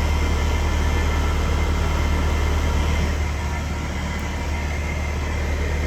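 Outdoor AC condenser unit with only its condenser fan motor running, a steady hum with a low drone. The compressor is not starting because the herm (compressor) side of the run capacitor has failed.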